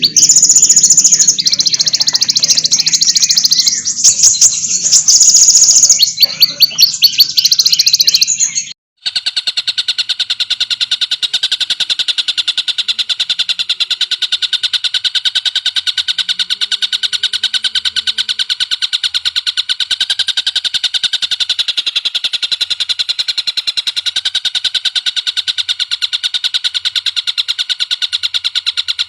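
Recorded songbird song used for masteran: loud, varied high chirps and rapid trills, which cut off abruptly about nine seconds in and give way to a different bird's steady run of rapid, evenly repeated high notes.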